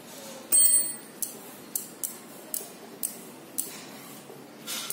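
A bicycle pedal being worked off its crank arm with tools: a sharp metallic clink about half a second in, then a steady run of light ticks, about two a second.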